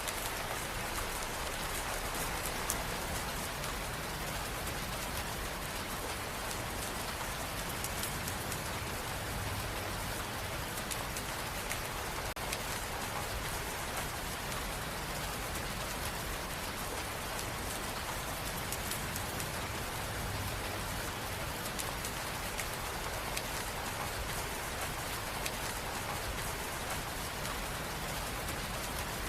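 Steady rain falling on a hard surface, an even hiss with fine droplet patter.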